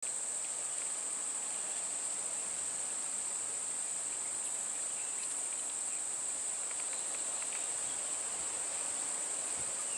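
Steady, high-pitched chorus of insects that does not let up.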